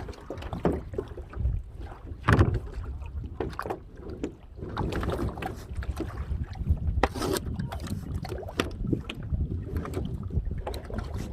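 Water splashing around a kayak as it is paddled, in uneven bursts every second or so, over wind rumbling on the microphone.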